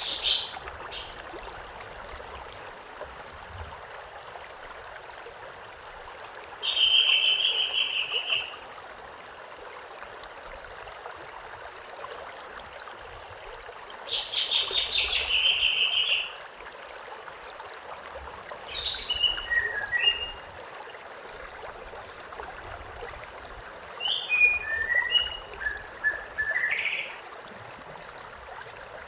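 A songbird sings about five short phrases of fast trills and chirps, several seconds apart, over the steady rush of a stream.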